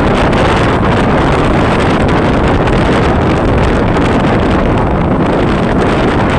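Wind buffeting the microphone over the steady running noise of a passenger ferry under way.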